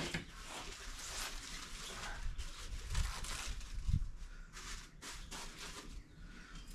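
Rustling and crinkling of puppy pads being handled and laid out on the floor as drip catchers, with two soft thumps about three and four seconds in.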